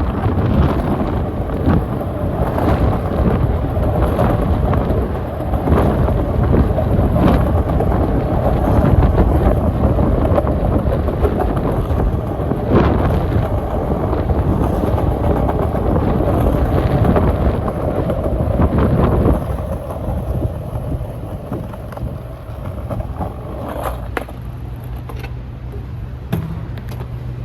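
Skateboard wheels rolling over pavement: a continuous rough rumble with scattered clicks over joints and bumps. It eases off and quietens about twenty seconds in, leaving a steady low hum.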